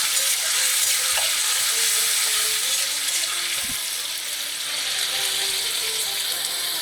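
Onion paste sizzling steadily in hot oil with whole spices as it is fried down (kosha) in a pan. A single short knock about three and a half seconds in.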